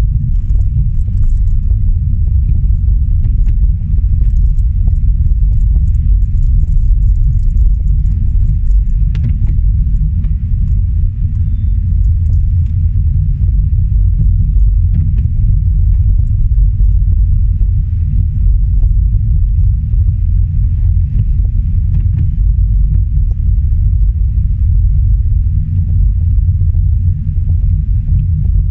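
Steady low rumble of a car being driven, with faint scattered clicks and ticks.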